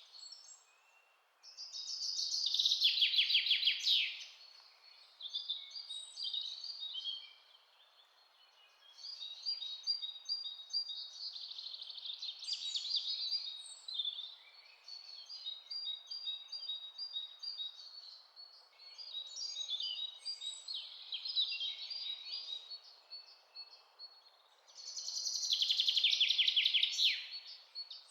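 Songbirds singing and chirping in a forest, phrase after phrase, over a faint steady background hiss. A louder song ending in a rapid trill comes about two seconds in and again near the end.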